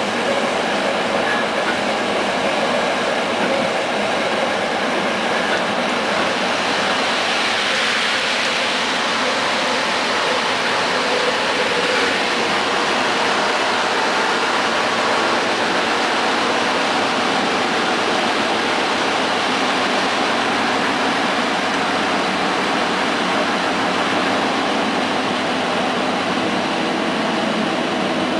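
Steady running noise of a passenger train heard from inside the carriage: wheels on the rails and the car body rattling, with no clear clickety-clack beat. The noise turns brighter and hissier for a couple of seconds around eight seconds in.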